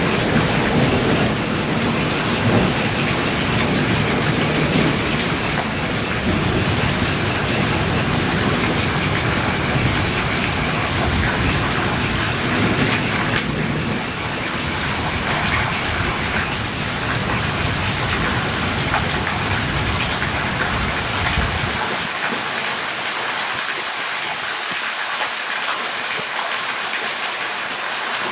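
Heavy rain pouring steadily during a thunderstorm, with a low rumble of thunder underneath that stops about three-quarters of the way through, leaving only the hiss of the rain.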